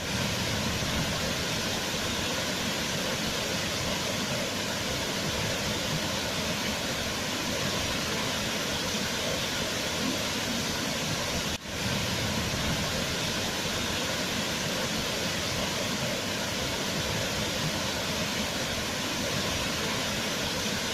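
Waterfall: a steady rush of falling water, with one momentary dip in level about twelve seconds in.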